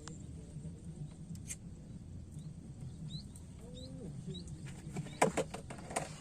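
A few short rising bird chirps over a steady low hum, then a quick cluster of sharp clicks or knocks near the end.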